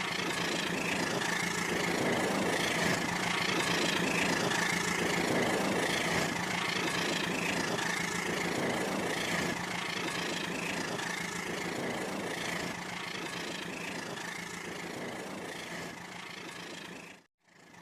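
Toy train set running on its track: a steady electric motor whine with a regular pulse about once a second. It fades slightly, then cuts off abruptly near the end.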